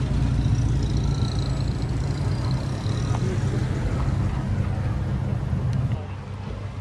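A car engine running with a steady deep rumble close by, dropping away sharply about six seconds in.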